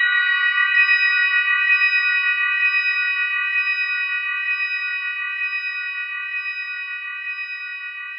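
Bells ringing out together in a sustained, shimmering chord with a gentle pulsing, slowly fading away.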